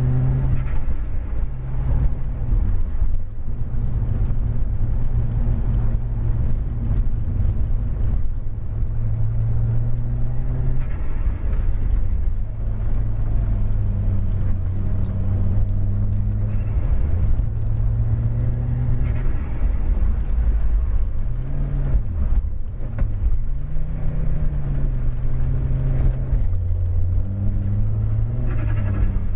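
Audi car engine heard from inside the cabin while it is driven hard on a snowy road. The pitch repeatedly climbs and drops as it accelerates through the gears and lifts off, with a few quick swoops in pitch about two-thirds of the way through.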